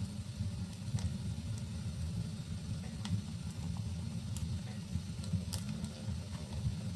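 Fire burning in a fireplace: a steady low rumble of flames with a few scattered sharp crackles and pops.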